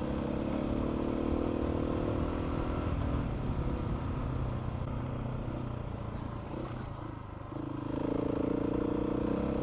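Adventure motorcycle engine running as the bike rides along, easing off about three seconds in and pulling harder again about eight seconds in.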